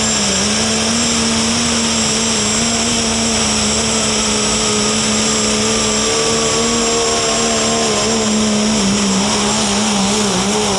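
Modified pulling tractor's engine running at high, fairly steady revs, its pitch dipping slightly a few times.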